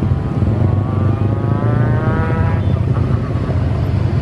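Jet airliner engines running with a loud, steady low rumble; a tone rises in pitch during the first half.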